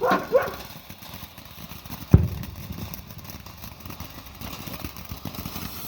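A single sharp firework bang about two seconds in, over a scatter of faint crackling, with two short squealing tones right at the start.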